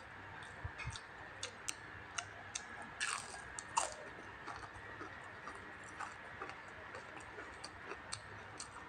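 Close-miked chewing with many small wet mouth clicks and smacks, two of them louder about three and four seconds in.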